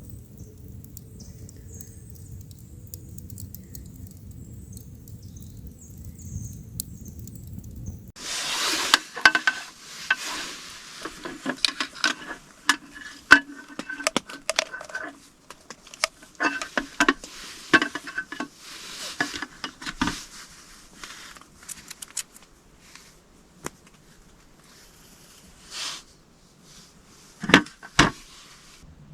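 Metal camp cookware and utensils being handled: a long run of clinks, knocks and scrapes, some with a short metallic ring, starting about eight seconds in after a few seconds of faint low steady noise.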